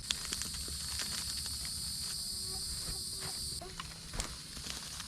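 A steady high-pitched insect chorus, louder for the first three and a half seconds and then dropping back. Scattered light crackles of dry pine straw being handled and spread.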